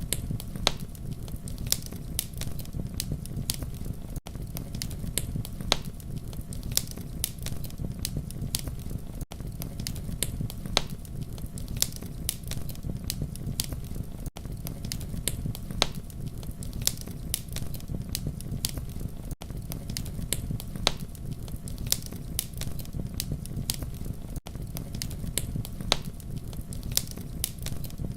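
Campfire burning: a steady low rumble of flames with frequent sharp crackles and pops. A brief dropout comes about every five seconds.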